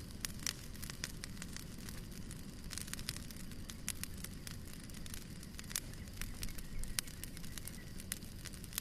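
Fire burning in a fireplace: a steady low rumble under frequent sharp crackles and pops, with a few louder pops scattered through.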